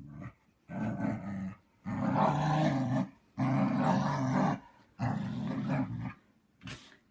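Husky grumbling: four drawn-out, growly moans of about a second each with short pauses between them, then a brief sharp sound near the end.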